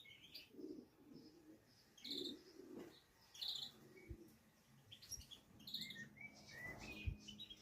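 Faint background of small birds chirping, with pigeons cooing low and soft every second or so. A few soft low bumps.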